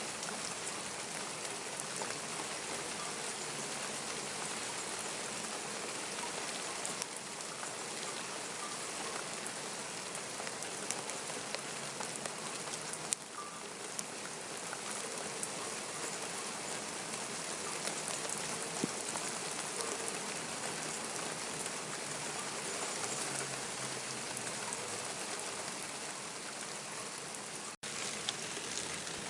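Steady rain falling, an even hiss with scattered small drop ticks. The sound drops out for a split second near the end.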